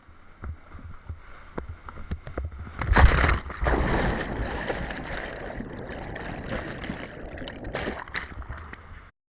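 Whitewater creek water rushing and splashing around a kayak, with scattered knocks at first and a loud splash about three seconds in; it cuts off suddenly near the end.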